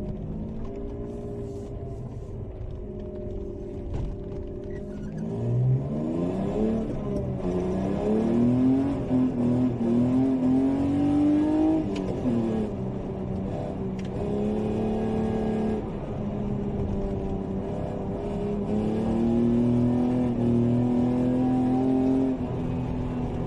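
BMW E36 325's 2.5-litre straight-six through Supersprint headers and exhaust, running steadily at first, then rising in revs for several seconds about five seconds in, dropping back, and holding a steady higher engine speed.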